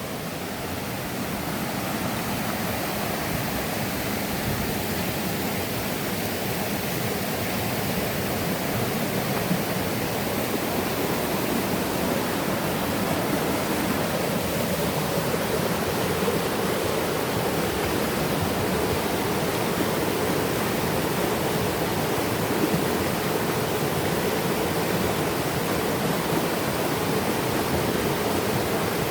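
Rushing water of a mountain river and waterfall, a steady even roar that grows louder over the first two seconds and then holds.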